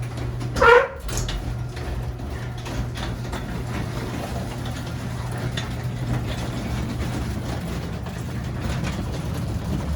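Electric garage door opener running steadily with a low hum while the door travels, with a brief louder screech under a second in.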